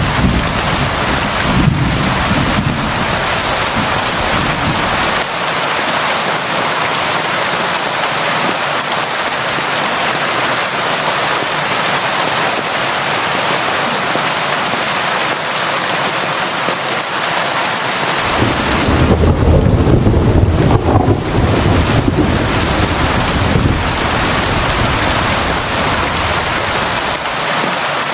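Steady heavy rain falling. A low roll of thunder sounds in the first couple of seconds, and a longer, louder rumble of thunder rolls through from about two-thirds of the way in until near the end.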